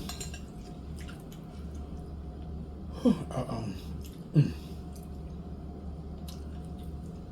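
A person chewing food, with small mouth clicks, and two short falling "mm" sounds of enjoyment about three and four and a half seconds in, over a steady low hum.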